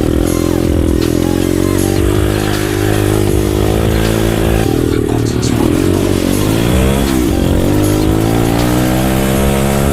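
Pit bike engine running and being revved, its pitch rising and falling, with a dip and climb about seven seconds in.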